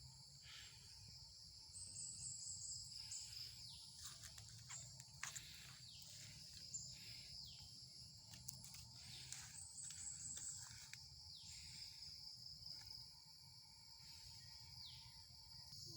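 Faint outdoor ambience: a steady high-pitched insect drone, with scattered short calls that fall in pitch.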